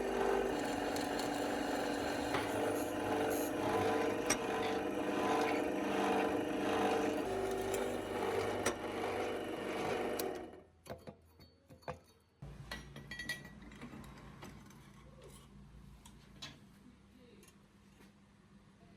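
A small electric motor runs steadily for about ten seconds, then cuts off suddenly, followed by a few light clicks and handling noises.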